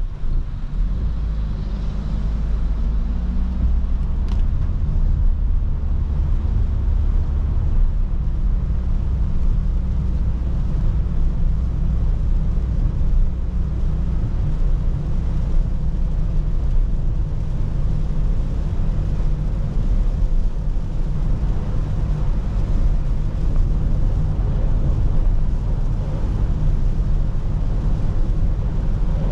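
A car driving in the rain: a steady low rumble with an even hiss over it.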